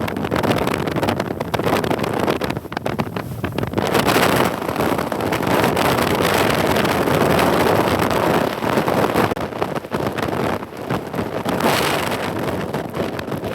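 Steady rushing road and wind noise from a 2014 Mazda 2 hatchback driving through snow in strong gusty wind, swelling and easing in strength.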